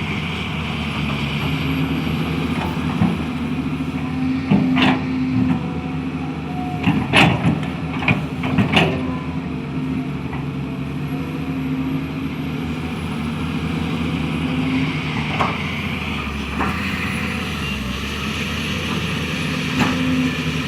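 Hydraulic excavator's diesel engine running steadily while digging soil, with a cluster of sharp metallic clanks in the first half and a couple more later on.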